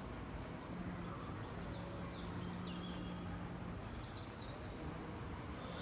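A small songbird singing a quick run of high chirps over steady outdoor background noise, with a faint low hum during the song.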